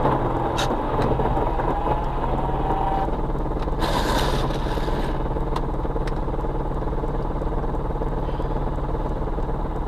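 A car engine running steadily, with a click near the start and a short rush of noise about four seconds in.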